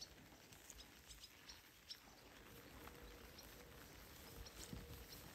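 Faint pasture ambience with scattered short, high chirps of small birds over a low background rumble.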